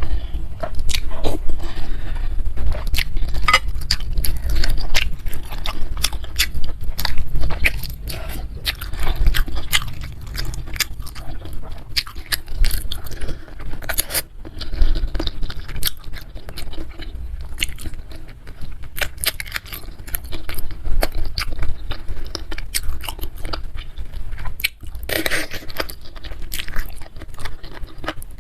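Close-miked chewing and biting of spicy meatball soup with soft chicken feet and noodles: a dense, irregular run of short mouth clicks, with a longer stretch of noise near the end.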